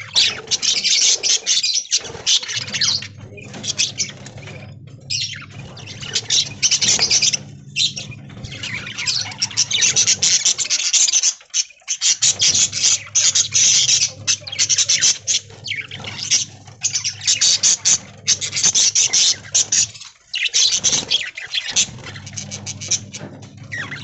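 A flock of budgerigars chattering and squawking in rapid, dense bursts, over a low steady hum that drops out twice.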